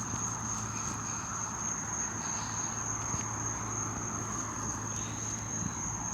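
Night insects, crickets or katydids, trilling in one continuous high-pitched tone, with a steady low hum underneath.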